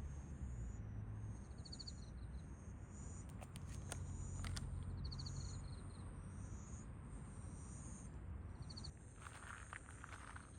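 Insects chirping in short repeating trills over a low steady rumble. There are a few sharp clicks midway and rustling steps near the end.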